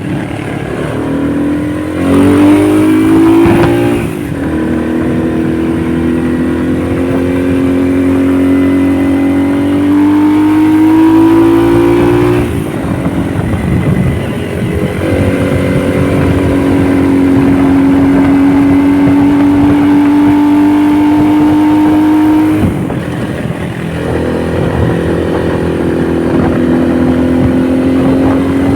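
Honda motorcycle engine running under way, its pitch climbing as it accelerates and dropping sharply at three gear changes before climbing again.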